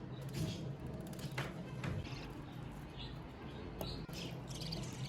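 Budgerigars chirping in short, scattered calls, with a few sharp clicks and a steady low hum underneath.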